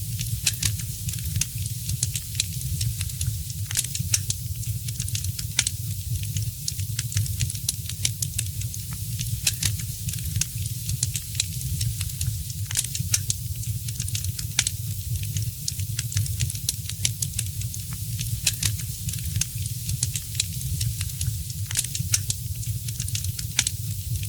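Fireplace fire crackling: frequent irregular sharp pops and snaps over a steady low rumble and hiss.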